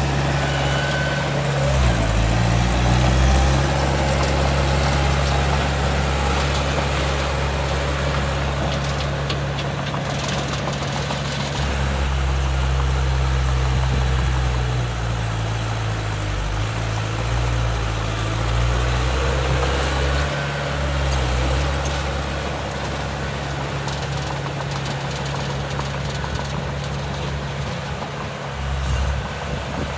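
Heavy diesel engine of earthmoving machinery running under load. Its engine speed dips and picks up again several times.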